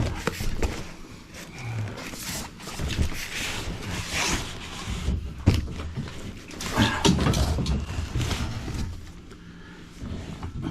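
Irregular scraping and knocking of a cut section of four-inch cast iron soil pipe being worked by hand to pull it loose from the stack, with several sharp knocks among the scrapes.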